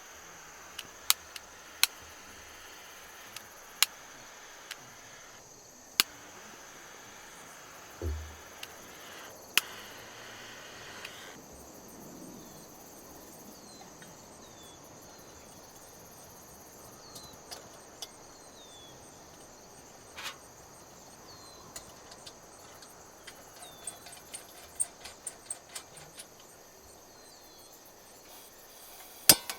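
Insects droning steadily on one high note in the outdoor background, with scattered sharp clicks and knocks and, in the second half, faint short chirps.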